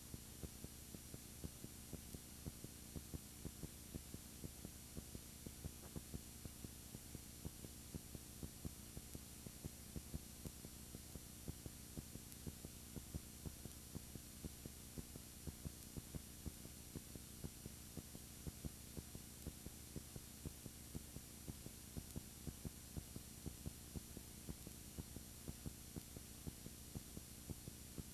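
Steady electrical hum and hiss, broken by faint clicks a few times a second, with no live sound picked up: the camera's audio is broken.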